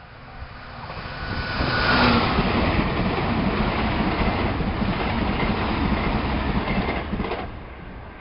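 A Meitetsu electric train passing at speed, its wheels rumbling on the rails. The sound swells about a second in, stays loud for several seconds and drops away sharply near the end.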